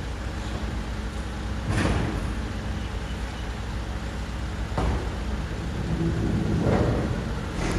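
Mercedes-Benz Arocs garbage truck's diesel engine running steadily, with short bursts of hissing or clanking noise about two seconds in, near the middle and near the end, and a louder stretch shortly before the end.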